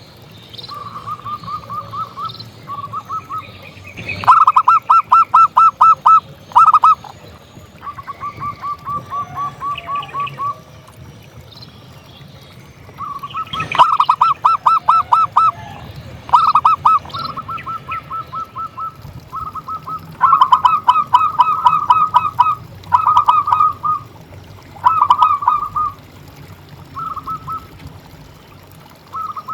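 Zebra doves (perkutut) singing in repeated bouts of rapid staccato cooing notes, each bout a second or two long with pauses between, some loud and close and some softer. A sharp click comes just before two of the loud bouts.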